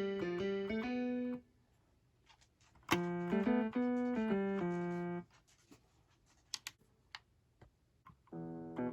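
Short melodic runs of notes played on the Akai MPK Mini Play MK3 keyboard's built-in sounds: one at the start, a longer one about three seconds in, and another starting near the end. A few faint clicks fall in the pause between them.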